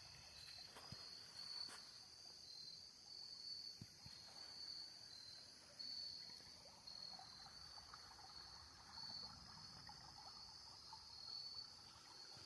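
Faint, high-pitched insect chirring in short, repeating pulses, steady throughout.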